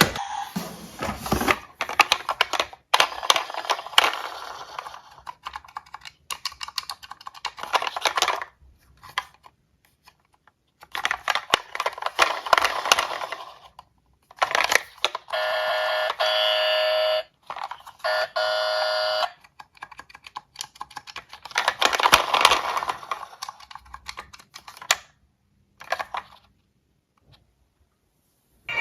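Small diecast toy cars clicking and clattering in irregular bursts as they are handled and run down a slope. Near the middle, a steady electronic tone sounds twice, each for about two seconds.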